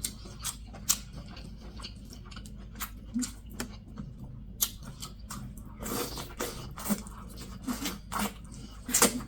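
Close-miked chewing and wet lip-smacking of a person eating, a run of short sharp mouth clicks that grows busier about two-thirds of the way in.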